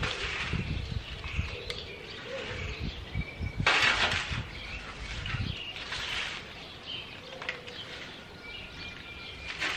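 Birds chirping and calling outdoors, in short flurries with a few thin whistled notes. Low thumps and rumbles run under the first half, then die away.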